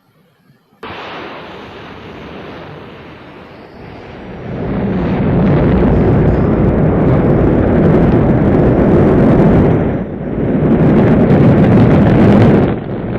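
Rocket engines firing: a loud, steady rush of noise that starts suddenly about a second in, grows louder about four seconds later, and dips briefly twice near the end.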